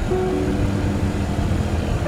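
Single-cylinder Suzuki Gixxer 250 motorcycle running on the road, a steady low rumble with wind noise, under background music holding a few sustained melody notes.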